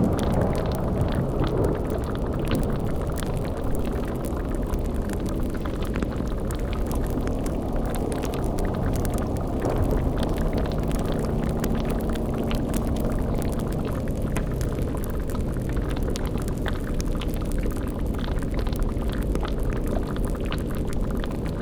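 Sound-effect ambience of a boiling cauldron: a steady low bubbling rumble with faint scattered crackles like a fire.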